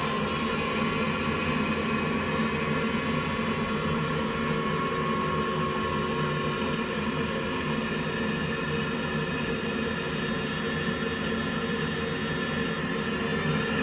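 Water heater running with a steady whirring hum, several steady tones over a noisy haze, holding level throughout.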